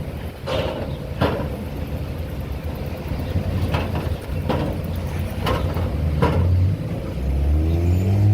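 Motor vehicle running with a steady low rumble and sharp knocks about once a second. Its engine note rises near the end.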